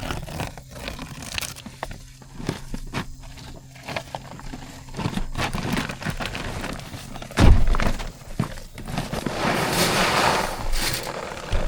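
Shelled deer corn being poured from a sack into a deer feeder, kernels clattering and rattling, with a loud thump about seven and a half seconds in and a steady rush of pouring grain near the end.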